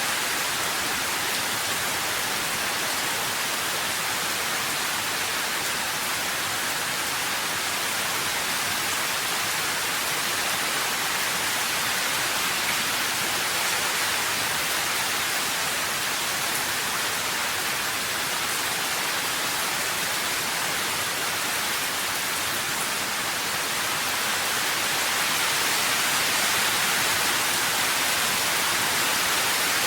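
Steady rain: an even, unbroken hiss without distinct drops or thunder, getting slightly louder near the end.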